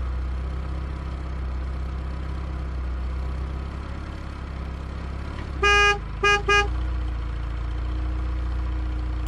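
A cartoon vehicle's engine running steadily with a low hum, and a horn honking three times about five and a half seconds in: one longer honk followed by two short ones.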